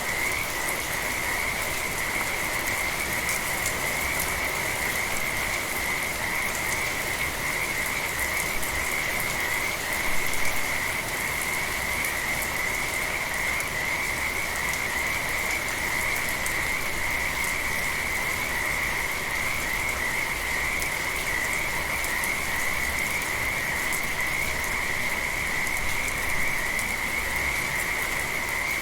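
Frogs calling in a continuous chorus, an unbroken high trill, over the steady patter of gentle rain. A brief louder burst comes about ten seconds in.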